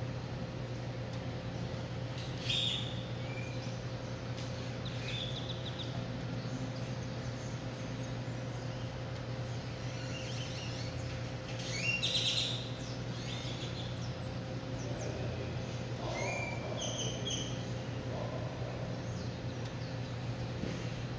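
Small birds chirping in short bouts several times, the loudest about twelve seconds in, over a steady low hum.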